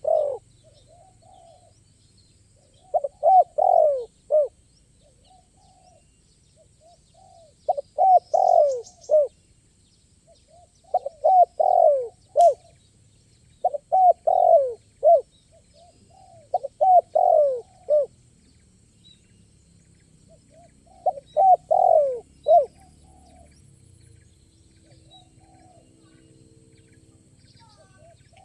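Spotted dove (tekukur) cooing: about seven rolling, multi-note coo phrases, each around a second long, repeated every few seconds with short pauses between.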